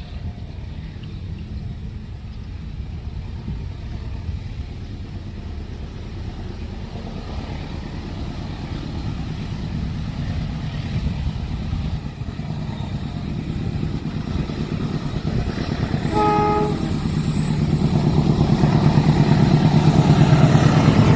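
Train approaching: the diesel locomotive's engine rumble grows steadily louder, with one short horn blast about three-quarters of the way through, and the rumble is loudest near the end as the train draws close.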